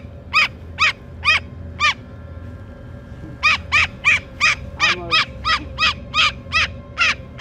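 A bird calling in a series of short, sharp notes: four spaced calls, a pause of about a second and a half, then a quicker run of about three calls a second.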